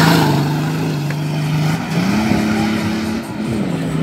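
Off-road 4x4's engine running hard at high revs, the note climbing about two seconds in and dropping back near the end, with a rush of spinning tyres spraying dirt at the start.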